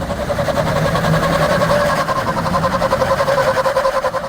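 Vehicle engine running at high revs under load while towing a stuck semi-truck out in low gear: a steady high-pitched drone with a fast pulsing.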